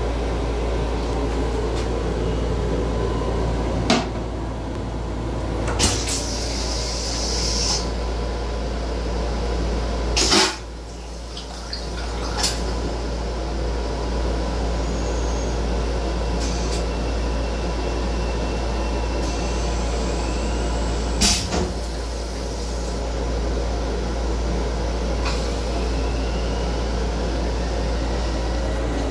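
Steady low rumble of an M7 electric railcar running, heard from inside its small restroom, with a handful of sharp knocks and clacks scattered through it.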